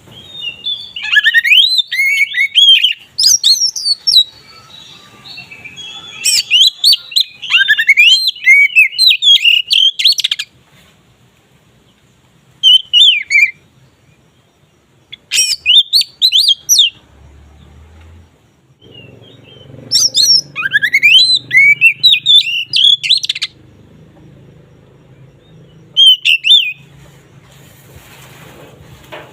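Oriental magpie-robin (kacer) singing its full, open 'ngeplong' song: loud, varied runs of quick rising and falling whistles and chattering notes. The song comes in bouts of a few seconds, separated by pauses and short single phrases.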